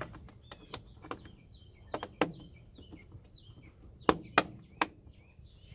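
Plastic air filter housing cover being fitted back on: a scatter of sharp clicks and knocks, the loudest three in quick succession about four seconds in. A bird chirps over and over through the first half.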